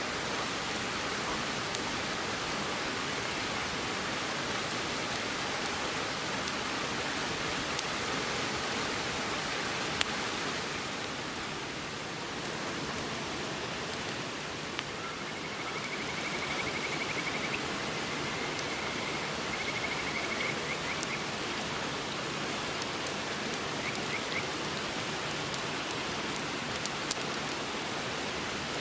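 A river rushes steadily, with a few sharp crackles and pops from a campfire, the loudest about ten seconds in. A faint high trill comes in briefly around the middle.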